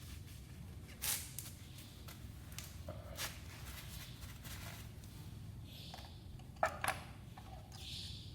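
A few short, sharp clicks and knocks, two in quick succession near the end, over a low steady hum.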